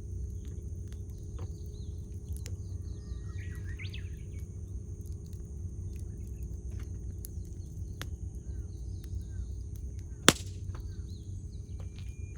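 Wood campfire crackling, with scattered small pops and one loud sharp snap about ten seconds in. Birds call in the background, a few short chirps about three to four seconds in.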